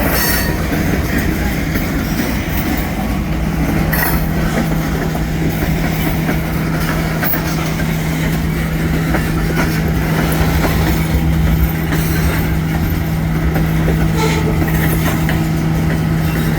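Missouri Eastern Railroad freight train rolling past: a steady low diesel engine drone over a dense rumble of wheels on rail, with a few sharp clicks.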